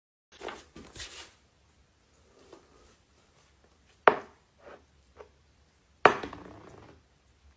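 A few light knocks, then two sharp thuds about two seconds apart, the second trailing off briefly.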